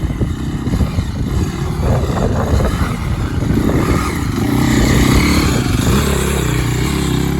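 Husaberg FE 450 single-cylinder four-stroke dirt bike engine running and revving. It swells to its loudest about five seconds in, then holds steady.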